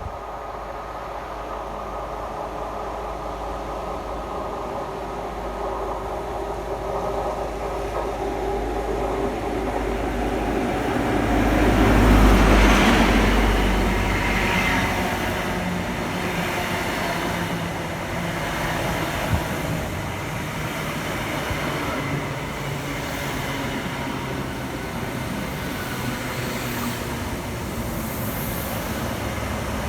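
Class 43 HST diesel power car and train moving through the station, the engine drone growing louder to a peak about twelve seconds in, followed by a steady rumble of the train rolling by.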